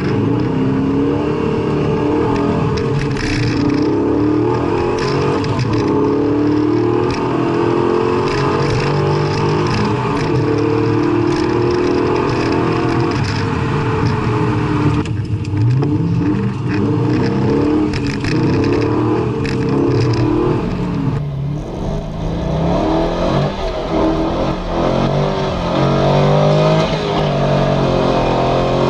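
Chevrolet Corvette Z06 V8 engines revving hard, the pitch climbing and dropping back again and again as the cars accelerate.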